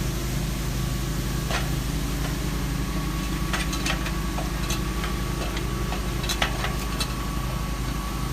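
Pressure-washer engine running steadily in the background, with scattered clicks and knocks from a ladder being climbed.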